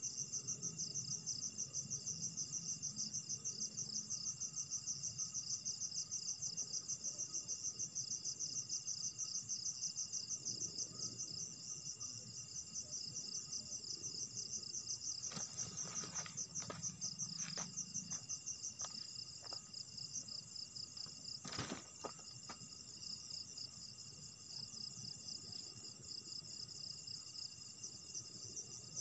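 Night insect chorus: crickets trilling in a fast, even pulse, with steadier high insect tones beneath. A few sharp clicks or knocks break in between about 15 and 22 seconds in, the loudest near 22 seconds.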